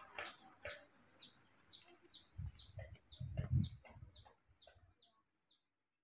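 A small bird chirping over and over, short high chirps that each drop in pitch, about two a second, stopping near the end. Several dull low thuds come in the middle, the loudest about halfway through.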